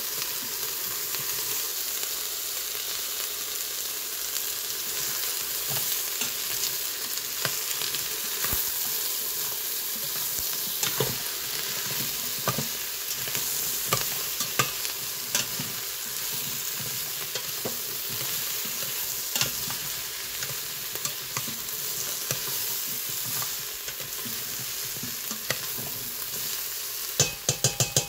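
Carrots, celery and onion sizzling in the stainless inner pot of an Instant Pot on sauté, stirred with a utensil that scrapes and clicks against the pot. There is a quick run of sharp clicks near the end.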